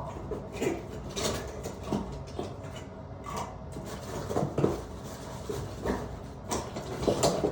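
Tools and metal fittings being handled during plumbing work: scattered clicks, clinks and light knocks.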